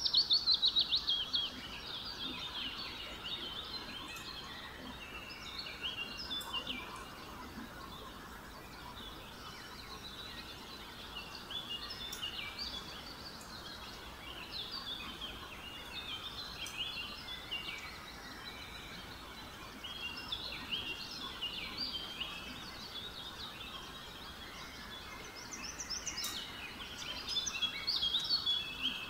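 Many small birds chirping busily, with short, quick notes overlapping one another, loudest near the start and again near the end. A few faint clicks now and then.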